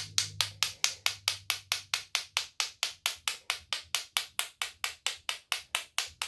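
Paintbrush tapped rapidly and evenly, about five sharp taps a second, to spatter white paint as falling snow onto a painting.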